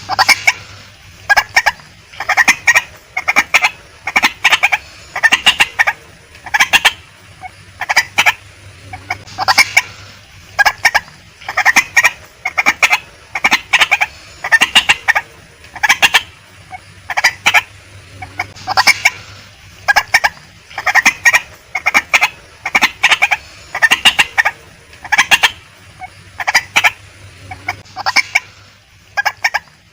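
Female white-breasted waterhen calling over and over: short clucking notes in clusters, one to two clusters a second, without a break.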